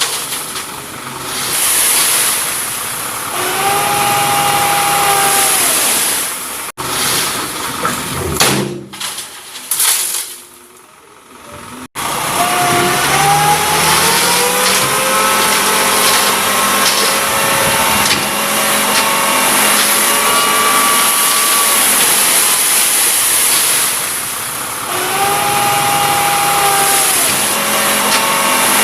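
Loaded dump truck's diesel engine revving and labouring over rough ground, its pitch rising and falling several times over a rough, noisy hiss. The sound breaks off abruptly twice, about 7 and 12 seconds in, then resumes.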